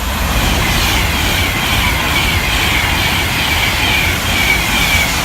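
Class 390 Pendolino electric train passing at speed: a loud, steady rush of wheel and air noise with a high hum that pulses about three times a second.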